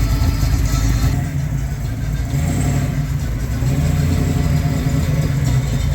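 A car engine running, loud and low-pitched.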